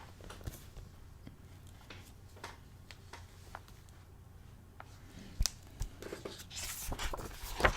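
Quiet room with a few small clicks, then paper rustling and handling noise in the last couple of seconds as a picture book's page is turned.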